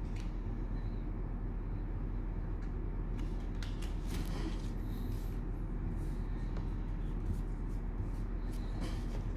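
Trading cards and cellophane pack wrappers being handled, with soft rustling and crinkling that comes in patches, over a steady low hum.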